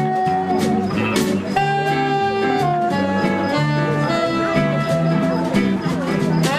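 Small jazz band playing, with long held melody notes over moving bass notes.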